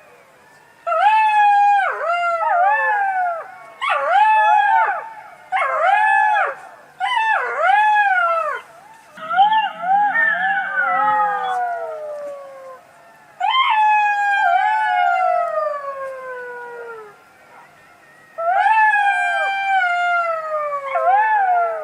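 Fox calling: a series of high, wavering yelping and whining calls, each arching up and then falling in pitch, in bouts separated by short pauses, with longer drawn-out falling wails around the middle and near the end.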